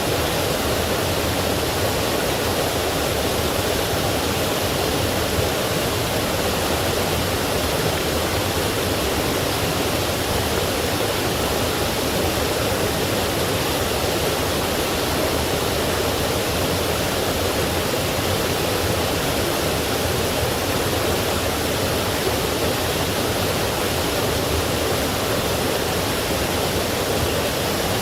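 Forest stream and small waterfall rushing, a steady full-bodied noise of running water that does not change.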